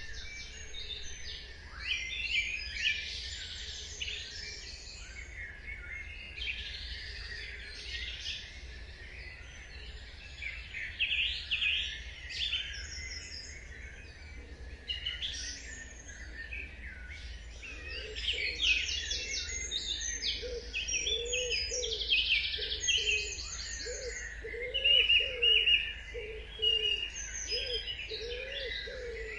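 Dawn chorus of several songbirds singing over one another in quick, high chirps, trills and whistles. From about two-thirds of the way in, a low repeated call, a little more than one a second, runs beneath them. A faint steady low hum underlies it all.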